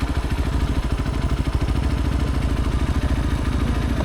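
Motorcycle engine running steadily with a fast, even low pulse and no change in pitch.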